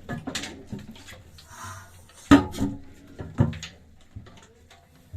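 A few irregular knocks and clatters, like hard objects being handled or set down, with no steady engine running.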